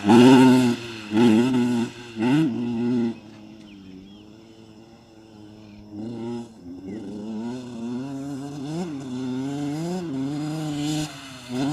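Motocross dirt bike engine revving in short bursts, dropping to a lower, quieter note for a few seconds, then running and revving up and down again.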